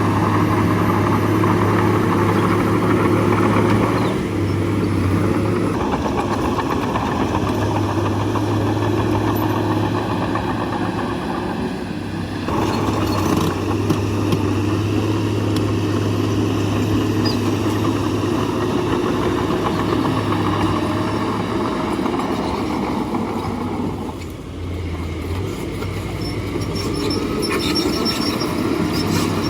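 Bulldozer's diesel engine running steadily under work, its note shifting and dipping briefly a few times.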